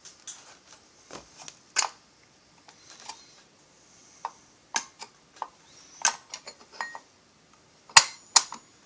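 Small metal chainsaw parts, likely the clutch drum and rim sprocket, clinking and clicking against each other and tools as they are handled and test-fitted: a string of irregular sharp clinks, a couple ringing briefly, the loudest two near the end.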